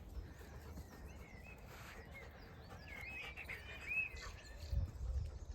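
Several small birds singing, a mix of short chirps and quick up-and-down whistled phrases, busiest in the middle. A steady low rumble runs underneath, with a few low thumps near the end.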